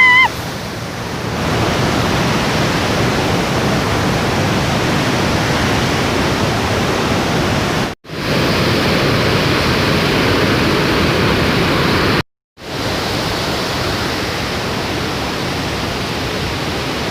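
Steady, loud rush of a large waterfall, with the wind it throws off buffeting the microphone. A short high-pitched sound opens it, and the rush cuts out for a moment twice.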